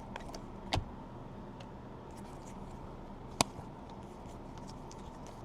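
Basketball trading cards being handled, with two sharp clicks, one under a second in and a louder one past the middle, over a faint steady hum.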